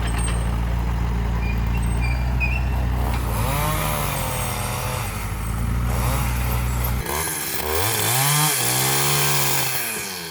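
A motor vehicle's engine running steadily, then revved up and down, its pitch rising and falling several times in the last few seconds before easing off at the end.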